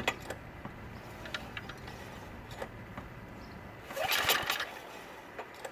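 Craftsman snowblower engine being pulled over by its recoil starter: light clicks and knocks, then a brisk pull of under a second about four seconds in, with the engine not catching. It turns over with little compression.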